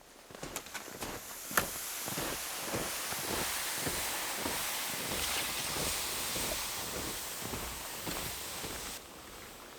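Wind storm rushing through the trees, with wind buffeting the microphone; a few clicks near the start and one sharp crack about a second and a half in, and the wind quieter near the end.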